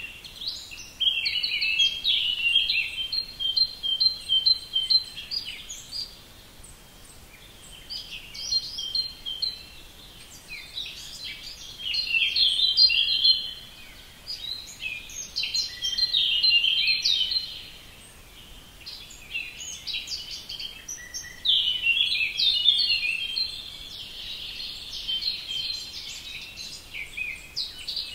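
A bird singing: phrases of rapid, high chirping notes, each lasting a few seconds, with short pauses between them.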